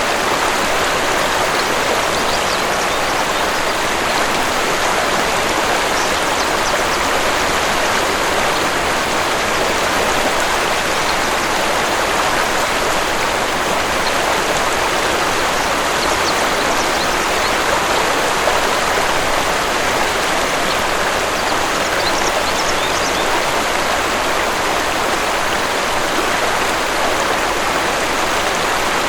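Waterfall and stream water rushing steadily, an even hiss of falling and running water.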